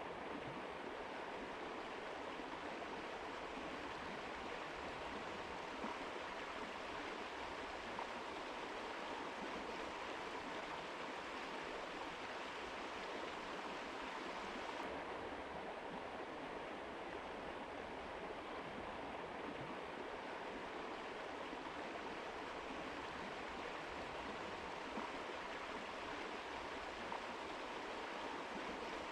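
Mountain river flowing: a steady, even rush of water, its highest hiss softening slightly about halfway through.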